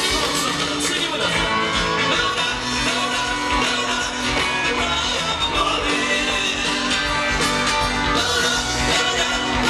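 Live rock band playing, with singing and guitar.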